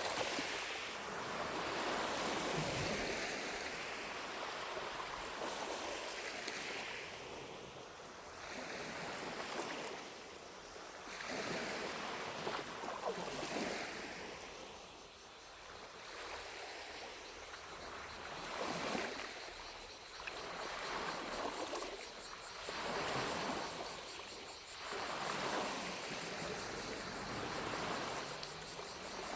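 Small lake waves lapping at the shore, each wash swelling and fading every two to three seconds. About halfway through, the faint high, steady buzz of distant cicadas comes in.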